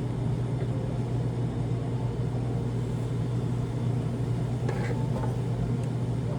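A steady low hum from a running motor or machine, holding one pitch, with a few faint light clinks about five seconds in.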